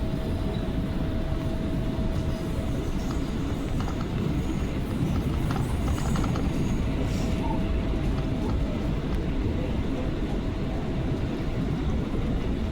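New York City subway train running between stations, heard from inside the car: a steady rumble of wheels on rail with a faint steady hum over it.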